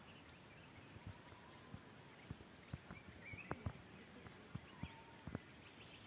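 Faint wild birdsong: a few scattered calls and chirps over a low hiss. Irregular sharp clicks run through it, the loudest a quick pair about three and a half seconds in.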